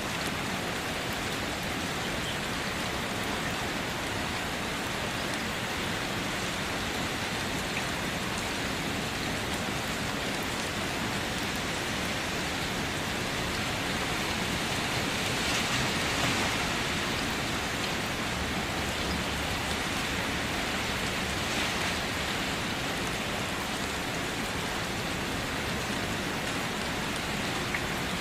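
Steady rain on a car's roof and body, heard from inside the car: a dense patter of drops that swells slightly about halfway through.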